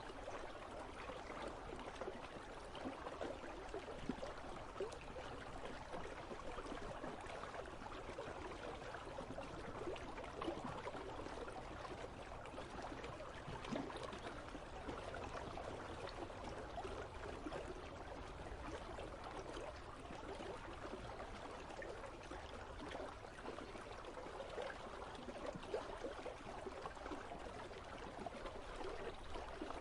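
River water flowing steadily, a constant babbling rush with no change through the stretch.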